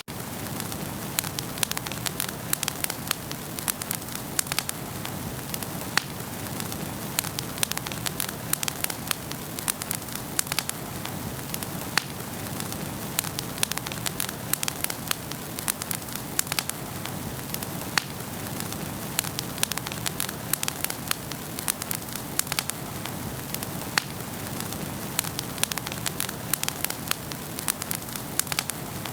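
Wood fire burning in a fireplace, with a steady rushing of flames and frequent sharp crackles and pops at irregular intervals.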